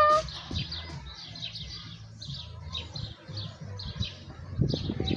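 A small bird chirping over and over in short notes, about three a second, with low rumbles on the microphone near the end.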